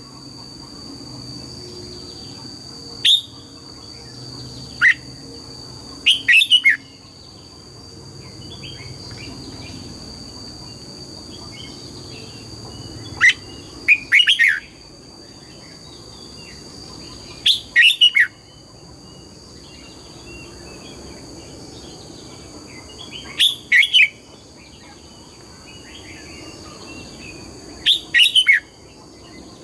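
Red-whiskered bulbul singing: short, loud, quick whistled phrases come every few seconds, with softer chattering in between. A steady high-pitched whine runs underneath.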